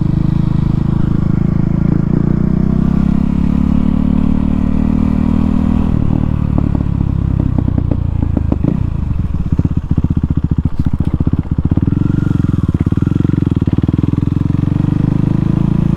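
KTM Duke 390's single-cylinder engine running loud with no exhaust muffler while riding. Midway the engine note drops and breaks into separate firing beats for a few seconds, then settles back into a steady run.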